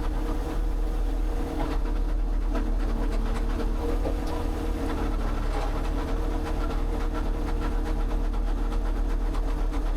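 A motor or engine running steadily, with many small clicks and knocks over it.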